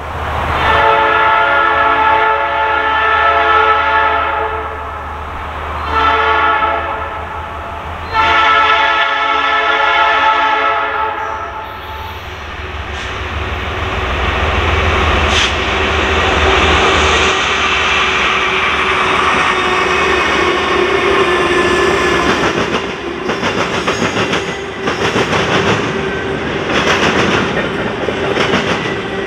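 Horn of two GE ES44DC diesel locomotives sounding a long blast, a short one and another long one, then the locomotives rumbling past. After that come double-stack container cars rolling through a railroad diamond crossing, with the wheels knocking in a steady clatter as they cross it.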